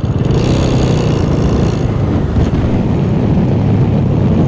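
Motorcycle on the move, its engine running steadily under a loud, even rush of wind and road noise.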